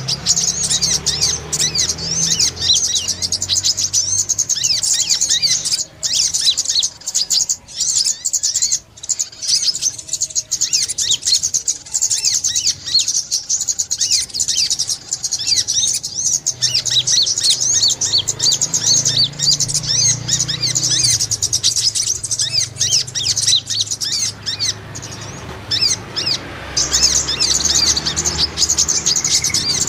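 Brown-throated sunbirds chirping: a dense, rapid stream of high, thin chirps, thinning out for a few seconds in the middle and again near the end.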